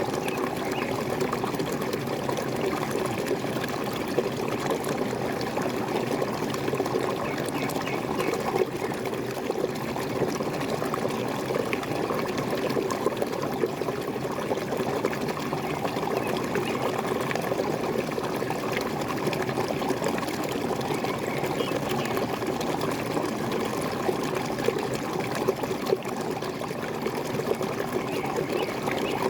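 Waterfall: water pouring and splashing steadily, with an even gurgling rush.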